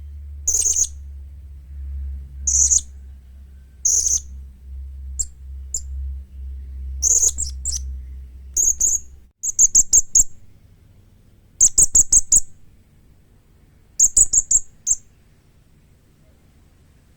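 Young blue-crowned hanging parrot (serindit) giving shrill, high-pitched calls: single sharp notes about every second and a half, then, from about halfway through, three quick runs of four or five notes each.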